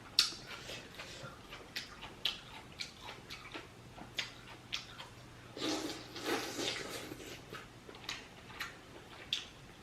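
Close-up mouth sounds of someone eating seafood boil in sauce: scattered wet smacks and clicks of chewing and lip-smacking, with a longer, louder stretch about six seconds in.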